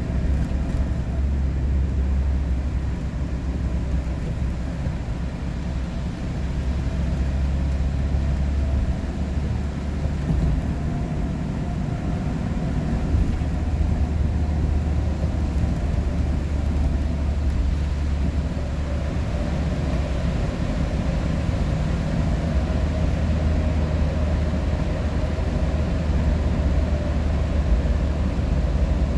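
Steady road noise inside a moving vehicle's cabin at highway speed: a low, even rumble of tyres and engine.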